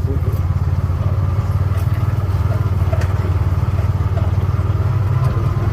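Vehicle engine running steadily as it is driven, a constant low drone with no change in pitch.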